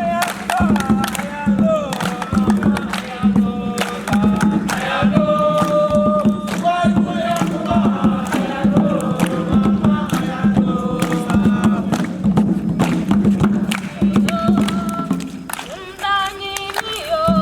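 A group singing and chanting together over a steady beat of sharp percussive hits.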